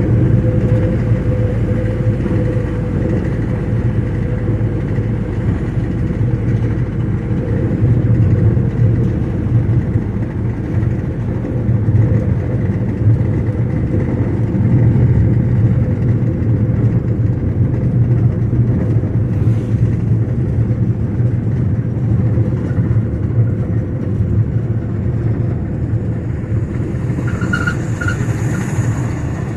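Steady low rumble of a car driving along a road: engine and road noise that holds level throughout.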